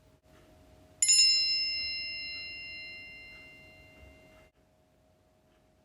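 A single bright chime sounds about a second in, its ringing tone fading away over roughly three seconds. It is the cue tone of a NAATI interpreting practice recording, marking the pause left for the candidate to interpret the segment.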